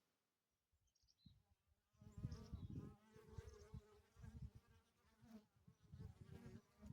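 Near silence, then about two seconds in a swarm of honeybees buzzing at the hive: several wingbeat hums at once, with uneven low rumbles beneath.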